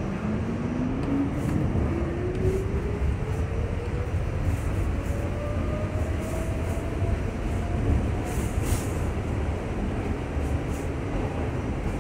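R68 subway car under way: a traction-motor whine rises steadily in pitch over about seven seconds as the train accelerates. Steady wheel-on-rail rumble and scattered clacks run beneath it.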